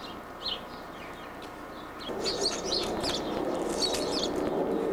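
Small birds chirping in short high bursts, several clusters, over an outdoor background hum that grows louder about two seconds in.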